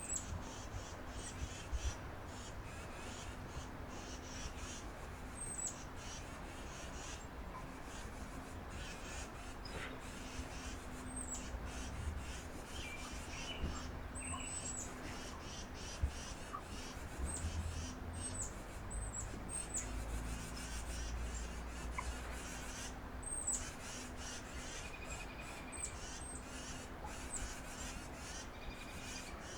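Wild birds calling around a backyard feeder: many short, very high, downslurred call notes scattered throughout, with a few lower calls in between, over a faint low outdoor rumble.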